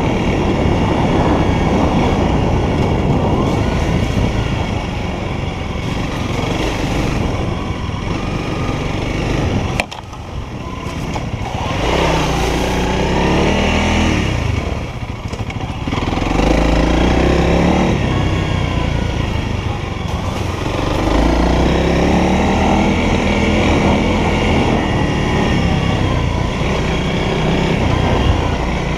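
Honda CRF300L's single-cylinder four-stroke engine running under way. About ten seconds in the engine drops off briefly, then its pitch climbs and falls several times as the bike accelerates and shifts.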